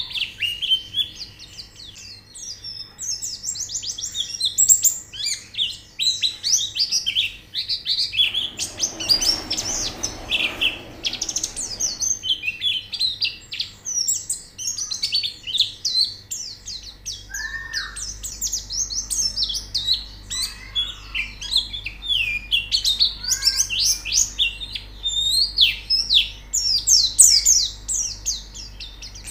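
Several white-eyes chirping and singing at once, in rapid, high, overlapping trills with no break. A brief spell of hiss comes about a third of the way in.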